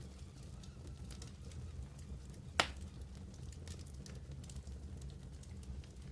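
Wood fire burning in a fireplace, crackling with scattered small snaps over a low steady rumble of the flames, and one loud pop about two and a half seconds in.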